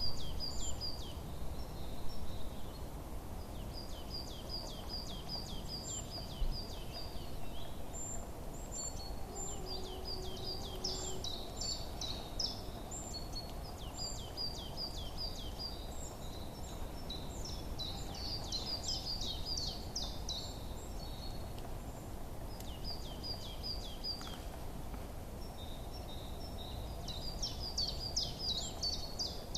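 Songbirds chirping in quick repeated high notes, in runs of a few seconds with short pauses between, over a steady low background rumble.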